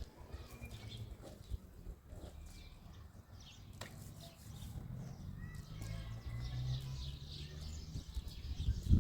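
Outdoor ambience: small birds chirping now and then over a low steady hum that grows slightly louder in the second half.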